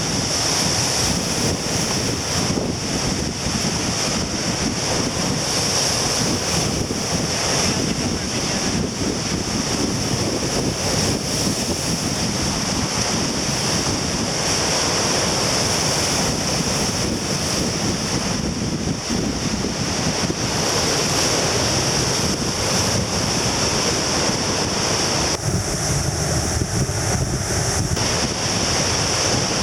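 Heavy surf breaking and washing in without pause, with strong wind buffeting the microphone. A brief pitched sound shows up near the end.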